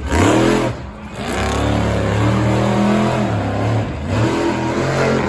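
Monster truck engine revving hard, its pitch climbing and falling as the throttle is worked. It dips about a second in and again near four seconds, and is held high in between.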